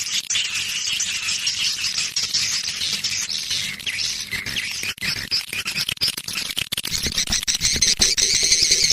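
Swiftlet call-sound recording: a dense, continuous chatter of many swiftlets twittering and chirping, with lots of sharp clicks, a little louder near the end. This is the kind of looped call played in swiftlet houses to lure the birds in to nest.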